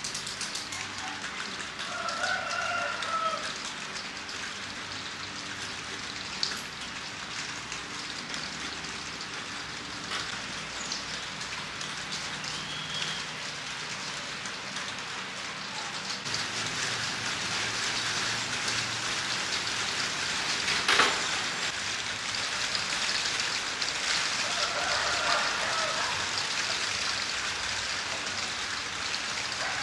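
Steady rain pattering on a surface, growing heavier about sixteen seconds in. A sharp knock stands out about twenty-one seconds in, and a short pitched call is heard twice.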